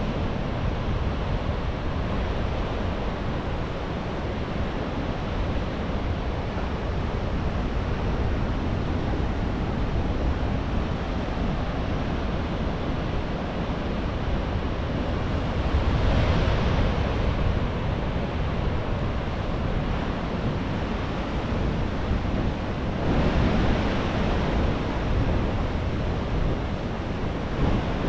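Atlantic surf breaking and washing in a continuous rush, with two louder waves surging about 16 and 23 seconds in. Wind buffets the microphone underneath.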